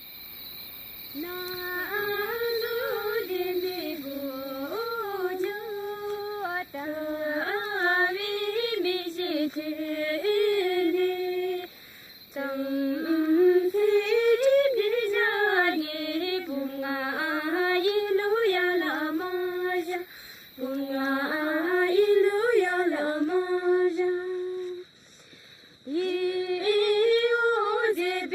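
A woman singing unaccompanied: a winding, wavering melody in long phrases, with short breaks between them.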